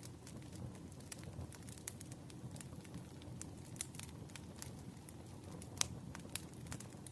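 Wood fire burning with a low steady rumble and irregular crackles and pops of the firewood, one sharper pop a little before six seconds in.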